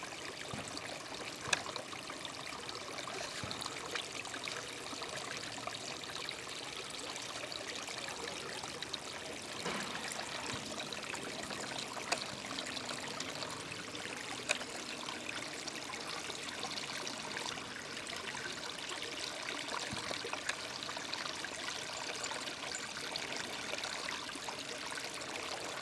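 Small waterfall of snowmelt runoff: a steady rush of falling, splashing water, with a few faint clicks.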